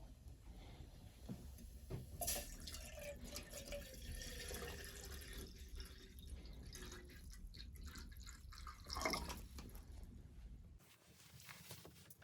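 Faint dripping and liquid sounds with many small scattered clicks, and one louder brief sound about nine seconds in.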